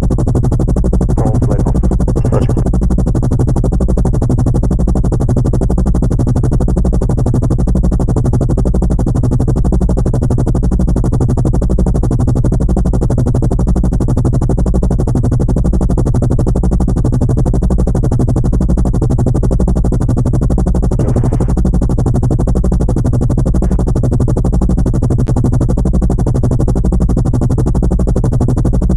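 Loud, steady synthesized drone heavy in the low end, with a fast, even pulse and no pause.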